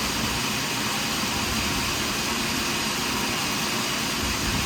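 Portable sawmill running steadily, a constant mechanical noise with no breaks.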